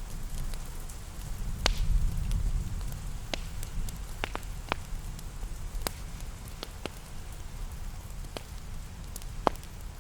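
Steady rain with a low rumble, and a wood fire crackling over it in scattered sharp pops, one of the louder ones near the end.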